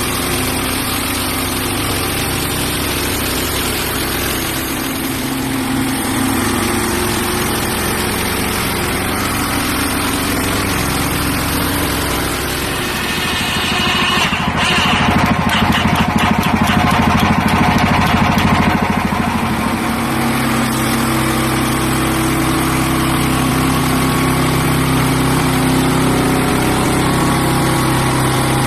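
Hudson Patriot band sawmill running, its engine going steadily while the band blade cuts a pine log lengthwise into thin boards. For several seconds in the middle it grows louder and rougher, then settles back to a steadier engine note.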